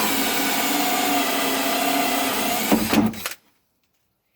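Cordless drill driving a hole saw through plastic, a steady whine that stops abruptly about three seconds in, with a couple of knocks just before it stops.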